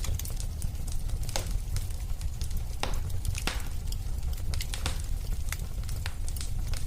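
Wood fire burning in a fireplace: a steady low rumble of the flames with irregular sharp crackles and pops of the burning wood, a few louder snaps around the middle.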